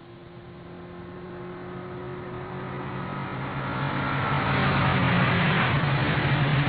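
Motor vehicle engine running with a low hum and road noise, growing steadily louder over several seconds and loudest near the end.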